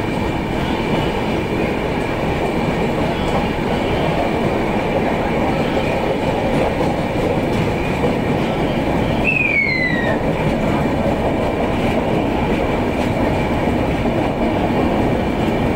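Passenger train running, heard from on board: a steady rumble of wheels on the track with a faint high whine. About nine seconds in there is a short, high squeal that falls in pitch.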